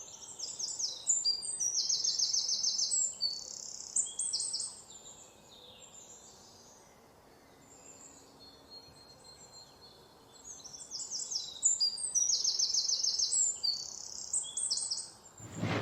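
A songbird singing high-pitched phrases of quick trills and short whistled notes, in two bouts of song separated by a pause of about six seconds.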